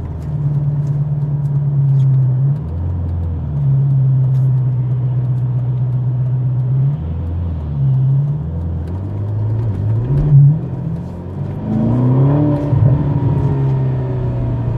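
Ferrari sports car's engine heard from inside the cabin while driving at low revs, its pitch stepping up and down with throttle and gear changes. It rises in revving glides about eleven to thirteen seconds in, with a brief loud knock just before.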